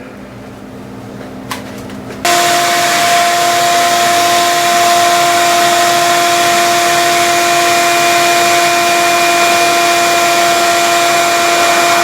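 A vacuum cleaner switched on suddenly about two seconds in and running steadily with a steady whine, sucking crumbled plastic out of a hole in an engine.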